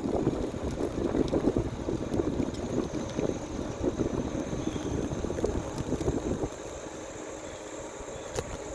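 Wind buffeting the microphone while cycling, a gusty, fluttering rumble that eases about six and a half seconds in.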